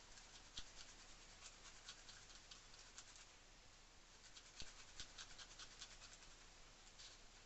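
Faint, irregular dabbing and scraping of an ink applicator on a mesh stencil over card, many quick soft strokes.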